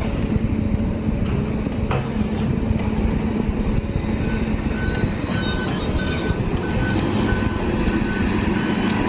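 Heavy diesel engine of logging equipment running steadily. About four seconds in, a backup alarm starts beeping in short, repeated beeps.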